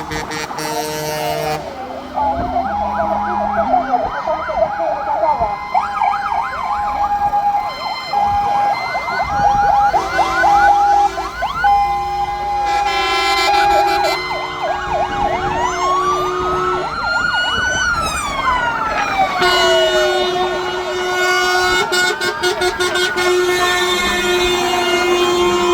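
Several fire engine sirens sounding at once: fast yelping warbles, alternating two-tone notes, and slow wails that rise and fall. Lower steady tones are held for a few seconds at a time, and one lasts through the last several seconds.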